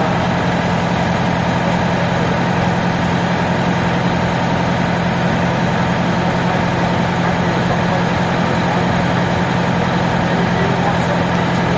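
A large engine running steadily at idle, with a constant low hum and no change in speed.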